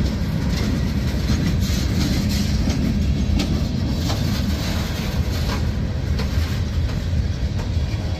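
Freight cars rolling past on steel wheels: a steady low rumble with irregular clacks of the wheels over the rail joints, from empty log cars and then a covered hopper.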